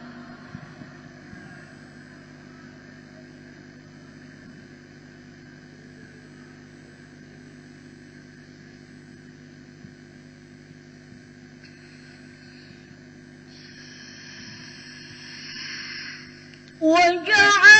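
A steady low hum with faint background noise, which swells softly for a couple of seconds near the end. Just before the end, a young female voice starts chanting the next verse of a Quran recitation in a high, melodic line.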